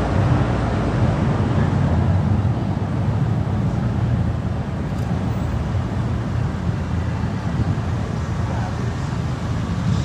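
Car driving on city streets: a steady low rumble of tyres on the road and the engine, without change.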